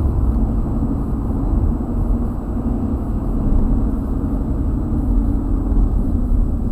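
Car driving, heard from a dashcam inside the cabin: a steady low rumble of engine and road noise.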